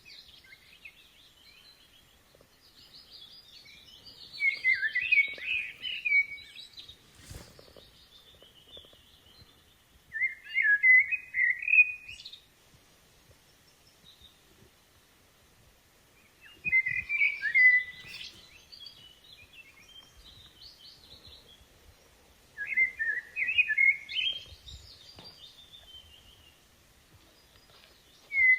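A songbird singing short warbled, chirping phrases, one every five or six seconds with quiet gaps between, and a single sharp click partway through.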